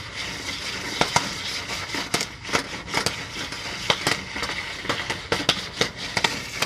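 Jiffy Pop stovetop popcorn popping in its foil pan as the pan is shaken over the burner: irregular sharp pops over a steady hiss.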